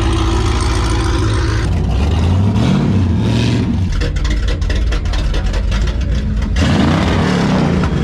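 Car engine revving, the pitch rising and falling twice, with a quick run of sharp exhaust crackles between the revs.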